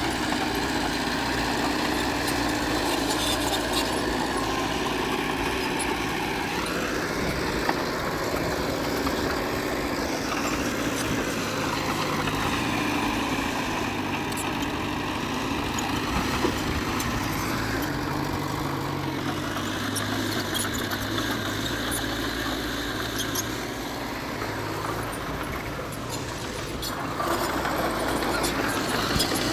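Diesel engine of earthmoving machinery running steadily, its pitch rising and falling several times as the throttle changes.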